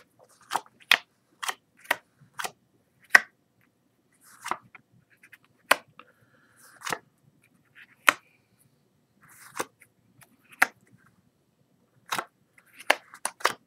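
Playing cards being turned over one at a time and laid on the table, each with a short, sharp snap, about one a second at an uneven pace.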